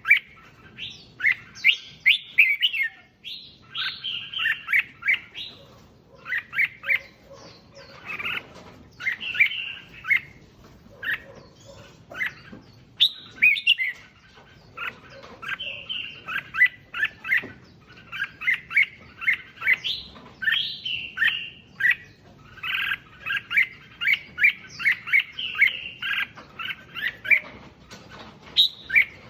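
Red-whiskered bulbul singing: quick phrases of bright, chirping whistled notes, repeated with only short pauses between them.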